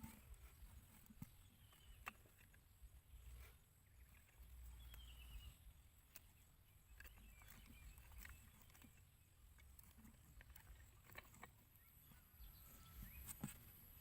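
Near silence, with a low rumble and faint scattered clicks and ticks.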